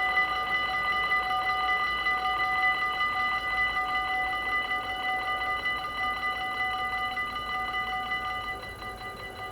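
Dutch level crossing warning bell ringing with a fast, even repeating ring, slowly getting quieter towards the end.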